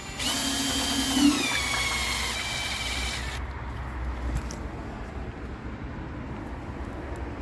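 Electric drill spinning the oil pump of a Ford 351 Windsor V8 to prime its oiling system. The drill's whine starts right away, drops in pitch as it loads up, and cuts off about three seconds in, leaving a low steady hum.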